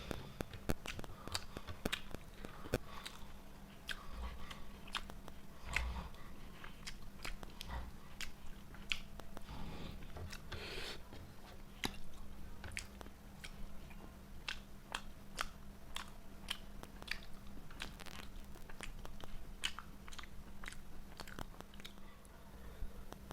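A person eating close to the microphone: steady chewing and biting of chicken and fried rice, with many small irregular crunches and wet mouth clicks. A faint steady hum runs underneath.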